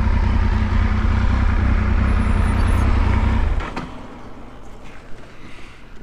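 Motorcycle engine idling steadily, then switched off about three and a half seconds in, the sound cutting out suddenly. A few faint clicks and handling noises follow.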